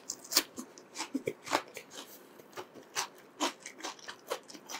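Close-up chewing of a bite of crispy breaded chicken cutlet dipped in a creamy sauce: a string of irregular short crunches and mouth clicks.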